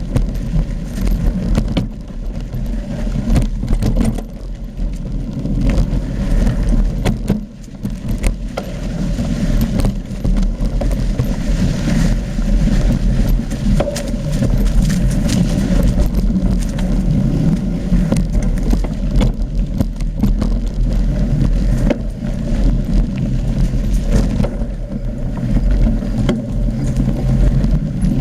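Mountain bike riding over rough trail: wind rumbling on the camera microphone, with frequent short knocks and rattles from the bike.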